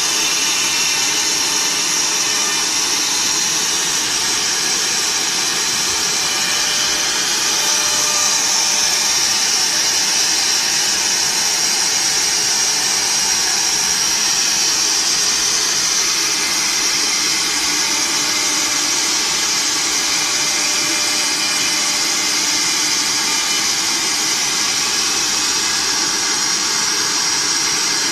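Multi-head CNC router running steadily, its spindles giving a high whine over a steady rushing noise.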